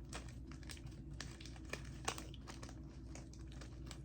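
Faint, irregular crinkling of a snack bag's plastic packaging being handled.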